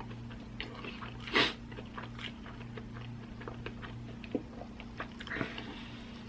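Close-up chewing of a fast-food sandwich, with small wet mouth clicks. One louder short burst of noise comes about a second and a half in, and a softer one near the end.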